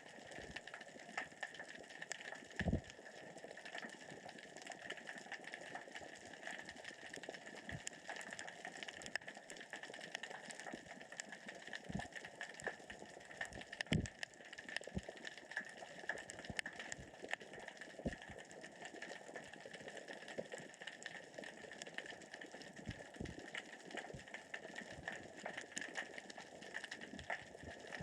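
Underwater crackle of small rocks rolling across the sea floor, pushed by the current and tide, as a dense run of fine clicks. A few low thumps stand out, the loudest about 3 s and 14 s in.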